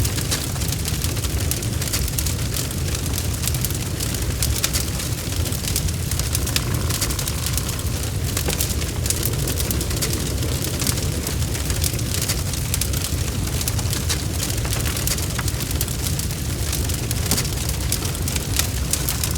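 Wood fire burning in a fireplace: a steady low roar of the flames with frequent, irregular crackles and pops from the burning logs.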